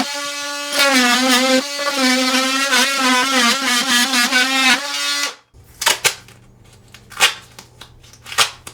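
Electric power saw cutting into a wooden subfloor, its motor pitch dipping and recovering as it bites. It cuts off about five seconds in, followed by a few light knocks.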